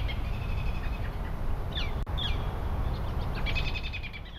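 Birds calling. A quick stuttering series of high notes comes twice, the second near the end, with a few short downward-sliding whistles between. Under them runs a steady low rumble, and the sound fades near the end.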